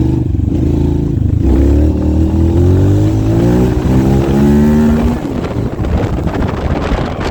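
Motorcycle engine accelerating hard, its note climbing steadily for a few seconds, then the throttle closes about five seconds in and the engine drops back to a rougher, quieter run. Heavy wind buffeting on the microphone.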